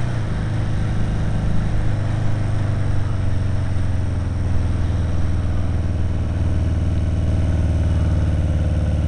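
Kawasaki KZ750 motorcycle engine running at a steady pace while riding, under a steady hiss of wind and road noise.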